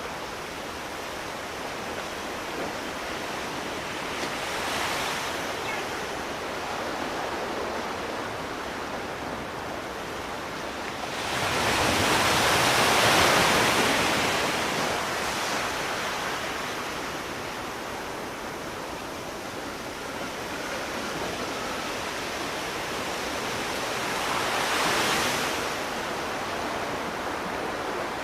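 Sea waves washing onto a shore: a steady surf hiss that swells and falls three times, with the largest wave breaking about halfway through.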